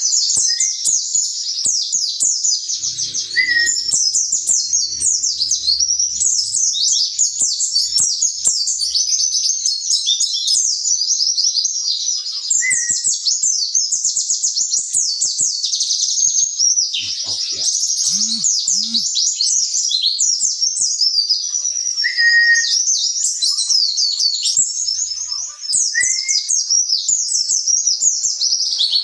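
Pleci (white-eye) singing without pause in a fast, loud, high twittering chatter of rapid chirps. A few short, lower whistled notes break in now and then.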